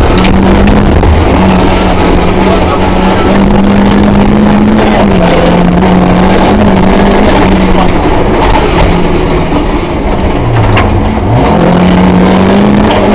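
Rally car engine running hard at high revs, the note held mostly steady; about ten and a half seconds in the revs drop briefly and then climb back up, as at a gear change or lift-off.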